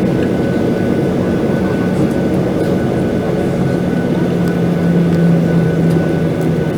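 Boeing 737-800's CFM56-7B jet engines heard from inside the passenger cabin: a steady loud rumble with a low hum and a faint high whine.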